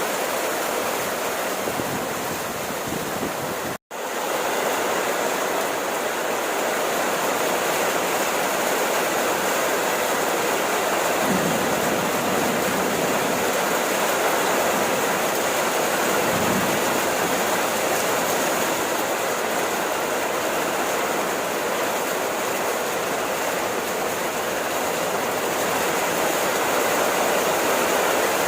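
Steady rain falling, a dense even hiss. It cuts out for an instant about four seconds in, and a couple of faint low thuds come later.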